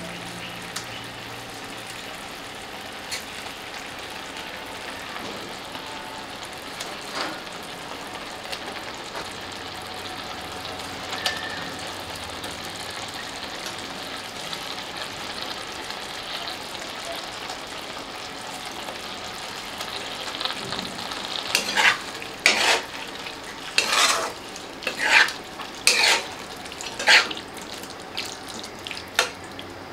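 Chicken tikka pieces sizzling and frying in oil in a pan of green malai masala, a steady hiss. Past the two-thirds mark, a spatula stirs the pan in about seven loud scraping strokes, roughly one a second.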